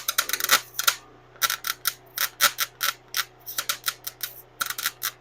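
Welder tack-welding stainless steel exhaust tubing: several short bursts of arc noise in quick clusters, each starting and stopping abruptly.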